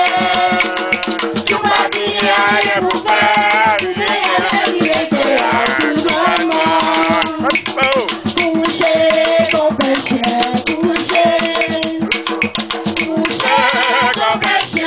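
Voices singing a traditional Creole song over a steady shaker rhythm.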